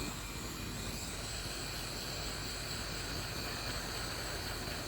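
Hot-air blower running steadily, a constant rush of air with a faint high whine, shrinking a new heat-shrink wrap tight onto an 18650 battery cell.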